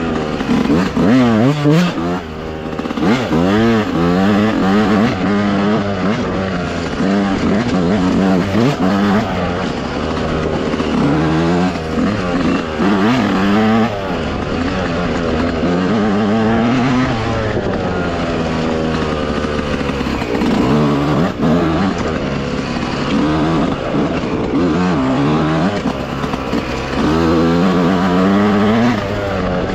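Dirt bike engine revving up and falling back over and over, the pitch climbing and dropping every second or two as the bike is ridden along a trail.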